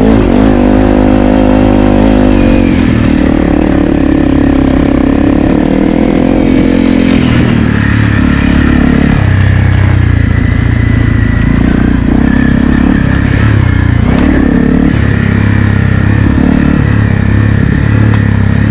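Honda CRF250L's single-cylinder four-stroke engine running under throttle while riding, loud and close. Its pitch rises and falls in the first couple of seconds, then drops lower and runs steadier.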